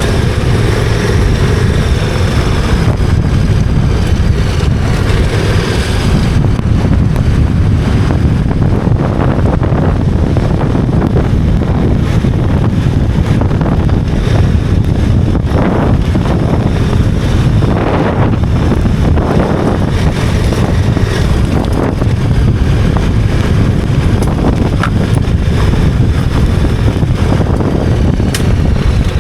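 Wind rushing over the microphone while a KTM 1290 Super Adventure R's V-twin engine runs underneath as the motorcycle rides along. The noise is loud and steady throughout, with a few rises and falls in engine pitch in the first few seconds.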